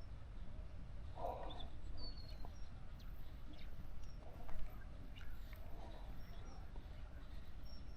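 Faint birds chirping and calling over a low, steady rumble, with one louder call a little after a second in.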